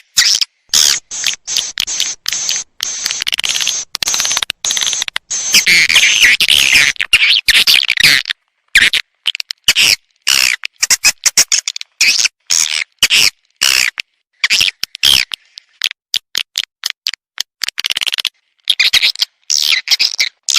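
Recorded swiftlet calls played as a lure: rapid runs of high, dry chirps and twitters, broken by sudden short silences.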